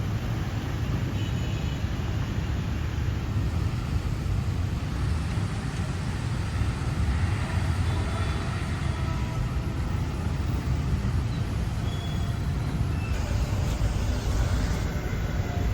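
Steady road traffic noise, a constant low rumble with no single vehicle standing out.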